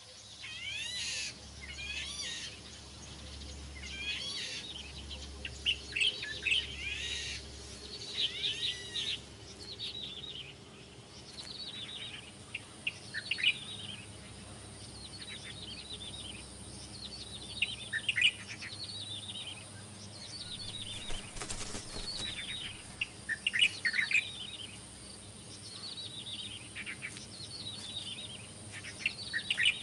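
A flock of birds calling: many short chirps and whistles overlapping, some rising and many falling in pitch, continuing in irregular bursts.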